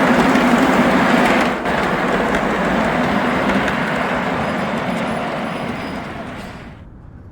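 Gauge 1 model train running on the layout: steady rolling noise of wheels on track over a low steady hum. It cuts off abruptly near the end.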